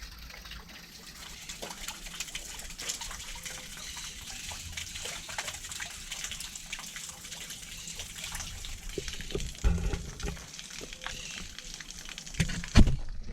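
Water splashing steadily, with many small birds chirping over it. Two low thumps come about ten seconds in and just before the end.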